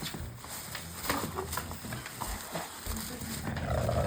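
Bulldog growling low while playing with a rope toy, with a louder pitched vocal sound near the end.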